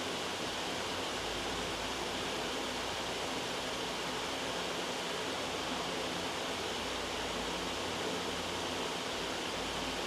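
Steady, loud white-noise track: an even hiss with no breaks or changes in level.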